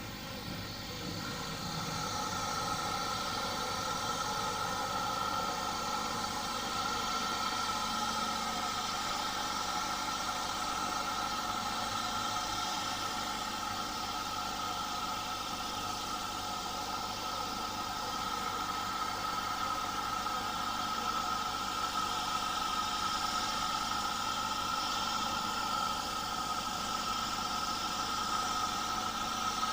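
Heritage railway train running steadily: a constant mechanical rumble with a steady high whine, growing a little louder about two seconds in.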